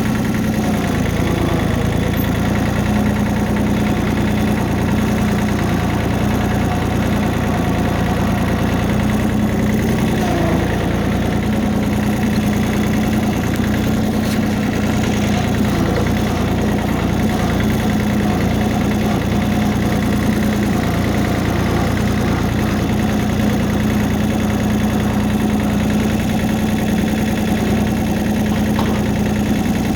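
Warmed-up tractor engine running at a steady, even speed while the tractor is driven along.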